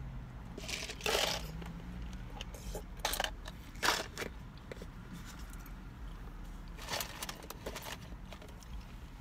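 Chewing and handling of a paper drinks cup and straw: a handful of short crunching and crackling noises a few seconds apart, over a low steady hum.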